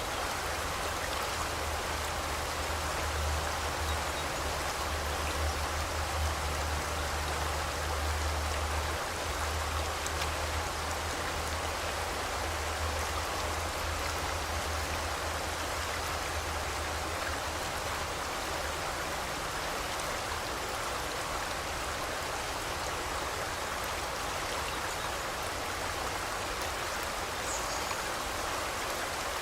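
Forest river rushing steadily, a continuous even hiss of flowing water with a low rumble that fades out about halfway through.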